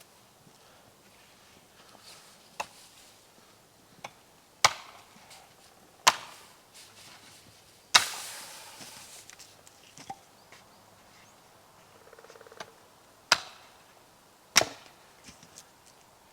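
Wood being chopped: about eight sharp, irregularly spaced strikes, the loudest about eight seconds in with a longer tail after it.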